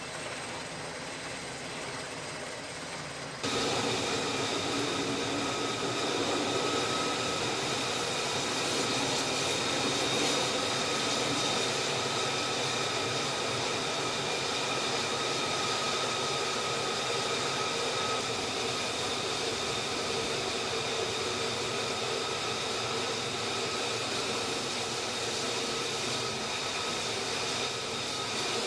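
Jet engine of an F-35B fighter running steadily: a broad rushing noise with a high, steady whine. The sound gets abruptly louder about three and a half seconds in and then holds even.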